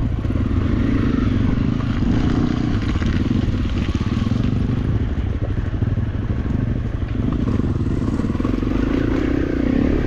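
Honda CRF250L single-cylinder four-stroke dirt bike engine running steadily while the bike is ridden at low speed along a rough off-road track.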